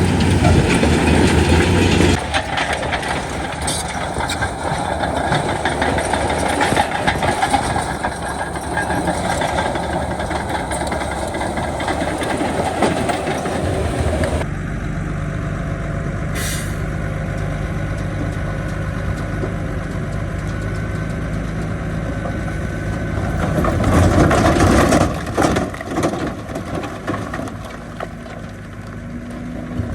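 Heavy diesel earthmoving machinery running and working, a steady low engine drone. The sound changes abruptly about two seconds in and again about halfway through, and swells louder a few seconds before the end.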